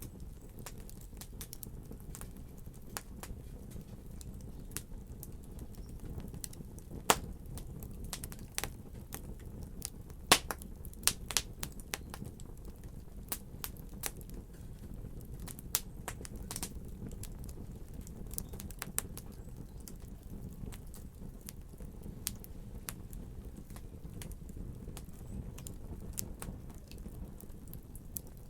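Wood fire crackling: a steady low rumble of burning logs with many sharp, irregular pops and snaps, the loudest about 7 and 10 seconds in.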